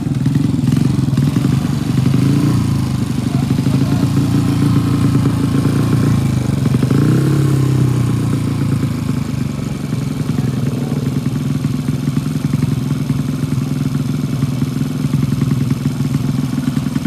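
Motorcycle engine running steadily, with a brief rise and fall in pitch about seven seconds in.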